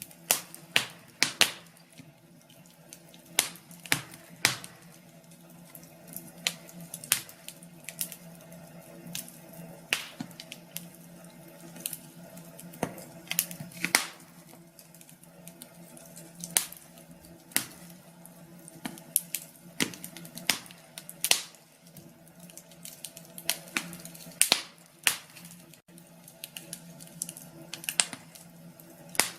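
Wood fire in a fireplace crackling: irregular sharp pops and snaps, several a second, over a faint steady low hum.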